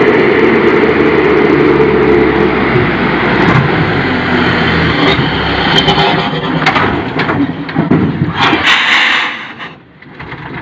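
Vehicle engine and road noise, with several sharp knocks along the way and a loud burst of noise a little before the end.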